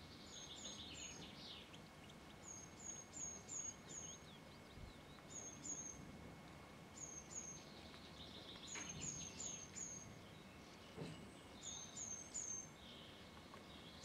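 Faint bird calls: short high notes in quick runs of three to five, repeated every second or two, with some lower twittering between runs, over a low outdoor hiss.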